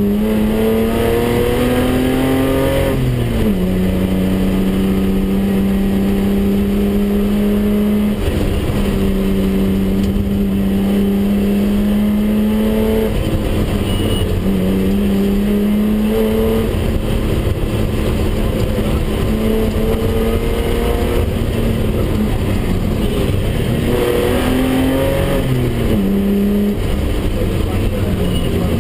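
BMW 320/6's straight-six engine pulling hard inside the cabin. Its pitch sags briefly at gear changes about three, eight and twenty-five seconds in, then climbs again, over steady road and wind noise.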